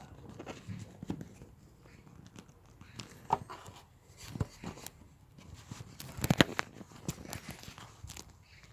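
Irregular clicking and crackling from the battery and fuse box area of a Honda Civic Type R EP3, with no steady hum; a cluster of sharper, louder clicks comes about six seconds in. The owner calls it a strange noise and has not found its cause.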